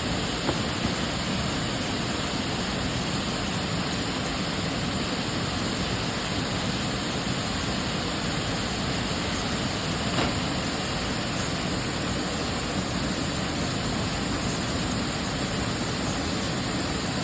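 Steady rush of falling water, an even unbroken roar with no change in level.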